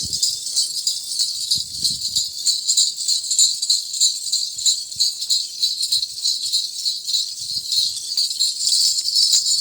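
Many small bells worn by walking goats jingling steadily, a dense continuous rattle of tiny strokes.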